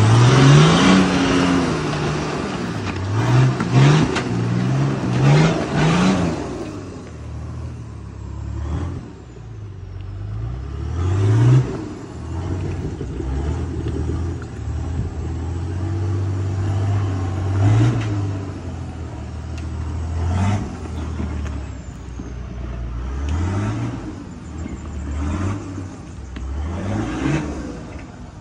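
A 4x4 ute's engine revving in repeated short bursts as it crawls up a steep rock ledge and on up a rocky track. The pitch climbs with each blip, with a steadier stretch of throttle in the middle. The first few seconds carry harsher noise over the engine.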